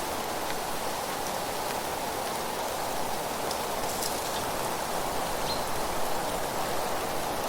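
Steady rush of wind through leaves, with a few faint high ticks scattered through it.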